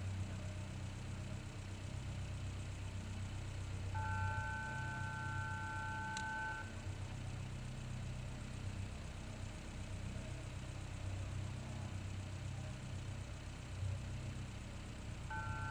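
Caterham Seven race car engines idling while stationary, a steady low hum. About four seconds in, a two-note electronic beep tone sounds for nearly three seconds, with a sharp click near its end; the tone comes on again near the end.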